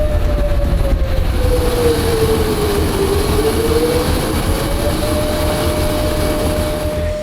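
C-17 Globemaster III running on the ground, heard from on board: a steady low rumble under a whine that sags lower about three seconds in and climbs back to pitch a couple of seconds later.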